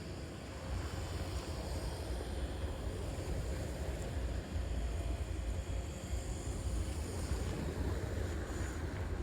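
Wind buffeting the microphone in a snowstorm: a low, fluctuating rumble over a steady hiss of street noise.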